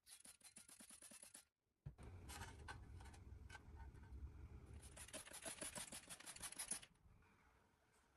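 Faint, rapid scratching and rubbing strokes in two runs, a short one at the start and a longer one from about two seconds in to near the end, the longer run with a low rumble beneath it.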